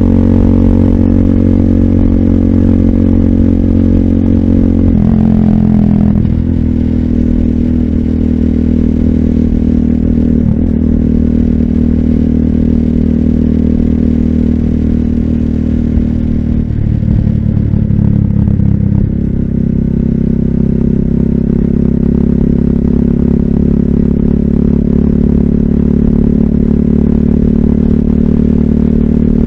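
Motorcycle engine of a RUSI Classic 250Fi running through an aftermarket full exhaust with a bullet-pipe slip-on and dB killer, riding along at a steady pace. The engine note changes twice, about five seconds in and again a little past halfway.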